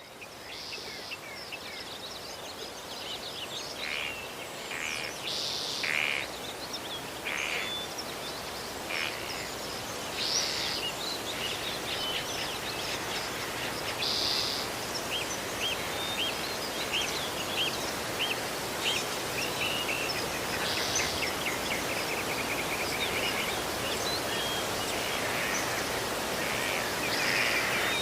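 Several birds chirping and calling over a steady outdoor hiss, with short repeated notes and a fast series of chirps about two-thirds of the way through.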